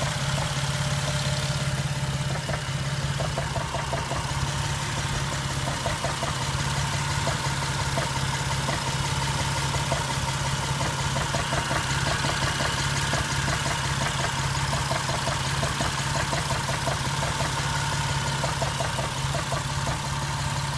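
Jeep engine idling roughly, with a steady, evenly repeating knock over the hum of the engine.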